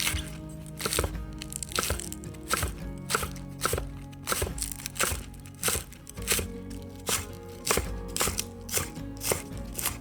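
Knife chopping on a cutting board in sharp, slightly irregular strokes, about two a second, over soft background music.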